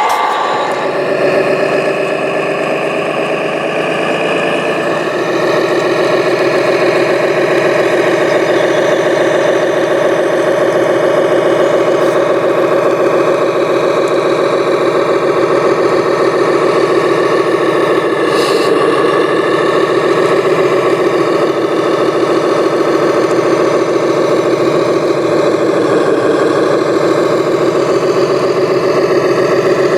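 Engine sound of a radio-controlled construction model, running steadily at a deep idle. It grows a little louder about five seconds in.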